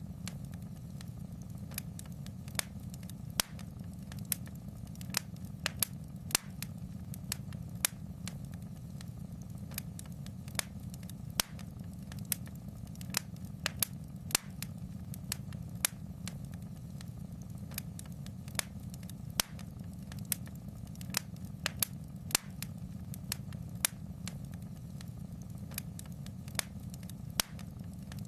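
Wood fire in a fireplace crackling, with sharp irregular pops and snaps a few times a second over a low, steady rumble of the burning fire.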